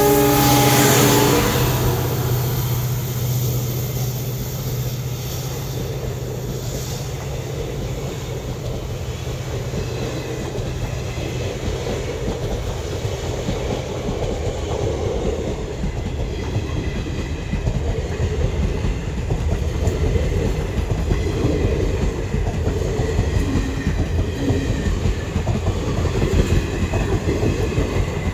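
WDP4D diesel locomotive passing close by: its horn ends about a second in, and the steady drone of its two-stroke EMD engine fades as it goes. ICF passenger coaches then roll past, their wheels clattering rhythmically over the rail joints, growing louder toward the end.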